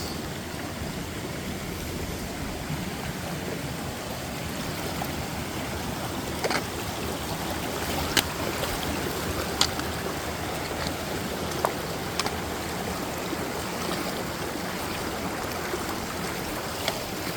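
Creek water rushing steadily over rocks, with a few short sharp clicks scattered through the middle.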